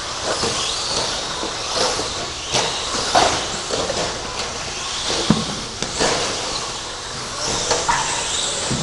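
Electric RC stadium trucks with 13.5-turn brushless motors racing on a track: a steady high-pitched motor whine and tyre hiss, with a few sharp clacks.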